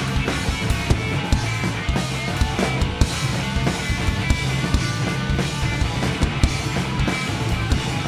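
Live rock band playing an instrumental passage with drum kit, electric guitar and bass, no vocals, with steady drum strikes throughout.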